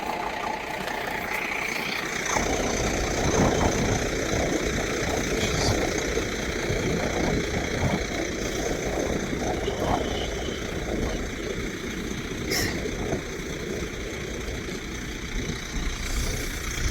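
A vehicle engine idling, a steady low rumble that gets louder about two seconds in.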